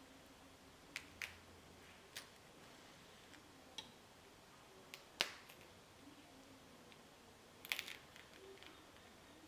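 Scattered light clicks and taps from kitchen prep work over a quiet background: about eight short ones, the loudest a little past halfway, then a quick cluster near the end.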